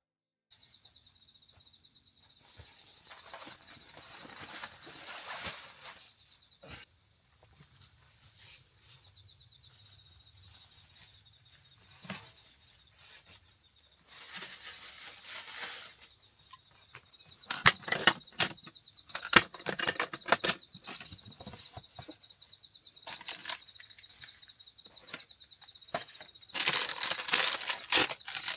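Insects chirring steadily in a high, finely pulsing chorus, with rustling swells now and then. Sharp clicks and knocks of handling come in a cluster about two-thirds of the way through and again near the end.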